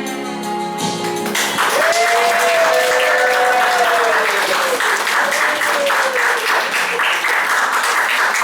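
A last strummed guitar chord rings out. About a second in, a crowd breaks into applause, with voices calling out over the clapping.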